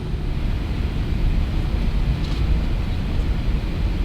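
Steady low rumble of an Airbus A380's engines and airframe heard from inside the passenger cabin as the jet taxis before takeoff.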